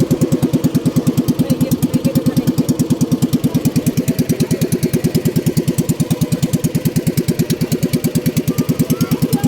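A small engine idling with a steady, even chug of about seven beats a second.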